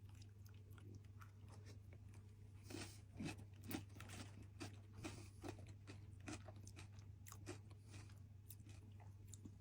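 Faint crunching and chewing of crisp food, a scatter of small irregular crackles that start a couple of seconds in, over a low steady hum.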